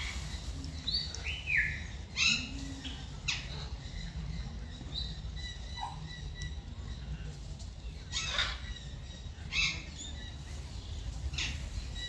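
Birds chirping: scattered short calls, one a quick falling chirp, with sharper calls about 2, 3, 8, 9 and 11 seconds in, over a steady low rumble.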